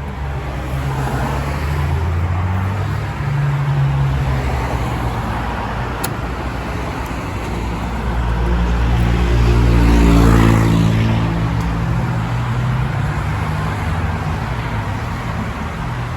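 Motorcycle engine running with road noise; the engine note swells to a louder peak about ten seconds in, then eases off.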